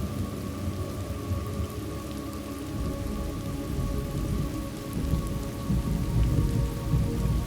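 Steady rain with thunder rumbling, the rumble swelling and growing louder from about three seconds in.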